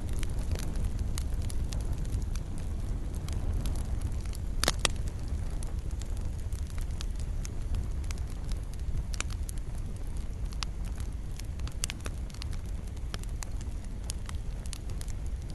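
Fireplace fire crackling: scattered sharp pops and snaps over a steady low rumble of the flames, with one louder pop about five seconds in.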